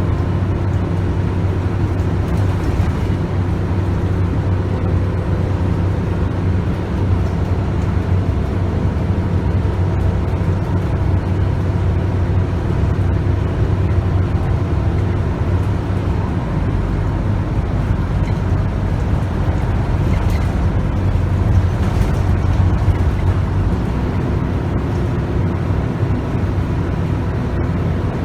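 Scania DC9 9.3-litre five-cylinder diesel engine of a Scania K280UB bus running steadily under way, with road noise, heard from inside the bus.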